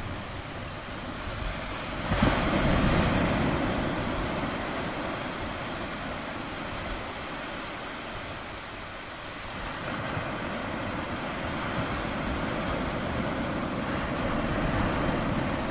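Ocean waves breaking and washing on a shore. One wave crashes about two seconds in and slowly drains away, and the surf builds again toward the end.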